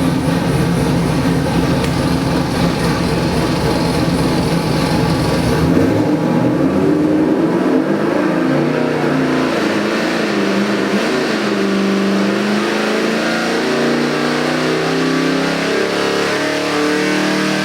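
Ford 347 cubic-inch stroker small-block V8 running on an engine dyno. It runs steadily at first, then about five or six seconds in its pitch starts stepping up and down as it is revved to different speeds.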